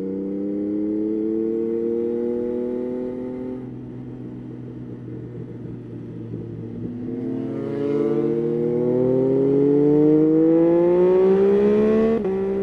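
Yamaha Tracer 9's inline three-cylinder engine pulling under acceleration. Its pitch rises, drops back about a third of the way in, then climbs and grows louder for about five seconds before falling abruptly near the end as the throttle is shut or a gear is changed.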